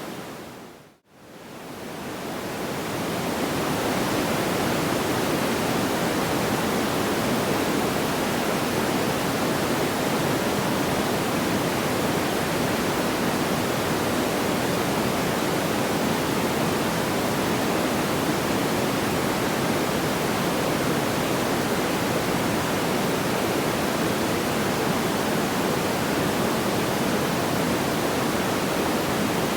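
Steady, even hiss of pink-like noise with no crackles, fading almost to silence about a second in and swelling back up over the next few seconds, as at the seam of a looped sleep-noise track.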